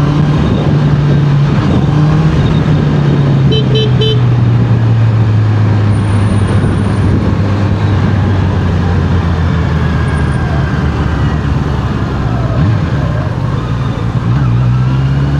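Honda CBR650R inline-four engine running under way, its pitch easing down slowly over the first several seconds and climbing again near the end, with wind rushing over the microphone. A horn toots three quick times about four seconds in.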